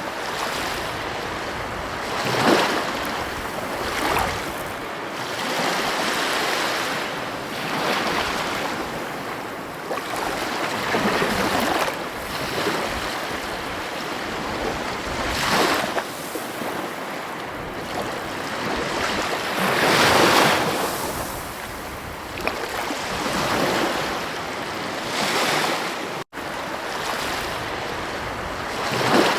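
Ocean surf breaking on a shore: a continuous wash of water, with a louder wave surging in every few seconds. The sound drops out for an instant near the end.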